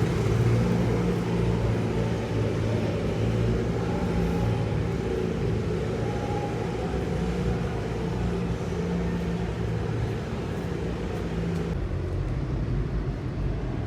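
A car's engine running steadily, a low even drone with no revving.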